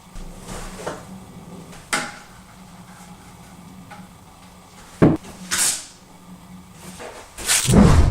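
A few sudden knocks and bangs, like a cupboard or door being handled, with the loudest bang near the end, over a faint steady low hum.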